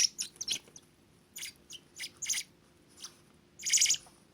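A young bird's high-pitched begging chirps while it is hand-fed worms. The calls are short and scattered, with a louder one near the end.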